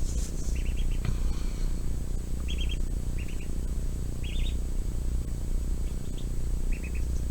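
A small bird chirping in short runs of three or four quick high notes, five or six times, over a steady low hum.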